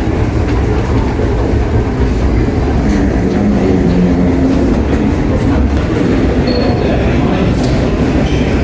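Steady, loud low rumble inside the cabin of an Airbus A320, with faint voices in the background.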